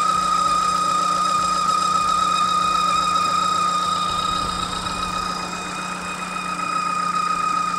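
Mark 1 Ford Focus engine idling with a steady, high-pitched squeal from the belt drive. The owner believes the squeal comes from a failing alternator overrun pulley.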